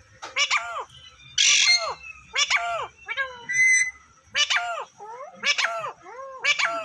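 A parrot calling over and over, about once a second: short pitched calls that fall in pitch, with one harsh squawk about a second and a half in.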